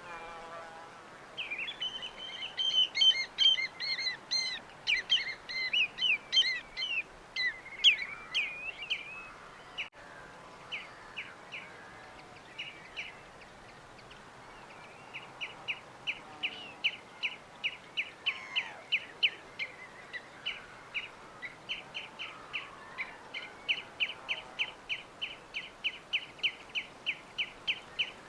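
Small birds chirping: a dense flurry of high, quick calls for the first several seconds, then a few scattered calls, then a steady run of short chirps about three a second, over faint steady background noise.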